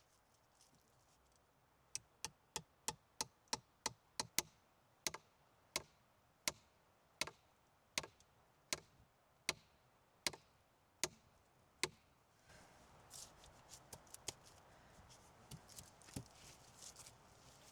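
A run of about twenty sharp knocks, about three a second at first, then slowing to a little over one a second and stopping about twelve seconds in; rustling and light crackling follow.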